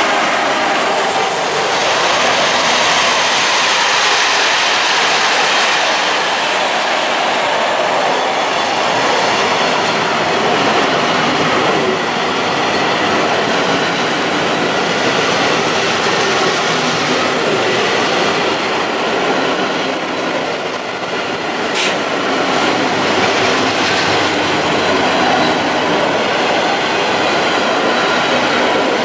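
Intermodal freight train's wagons, loaded with road trailers, rolling past at close range: a steady, loud clatter and rumble of wheels on rail.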